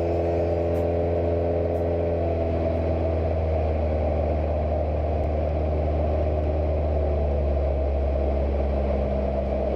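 Cessna 172's four-cylinder piston engine and propeller running with a steady drone, heard from inside the cabin.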